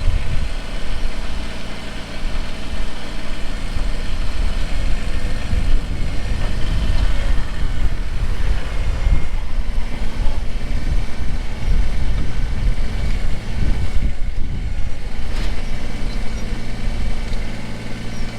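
Kubota BX23s compact tractor's three-cylinder diesel engine running steadily while its backhoe works at a stump, with gusts of wind buffeting the microphone. The wind rumble eases near the end.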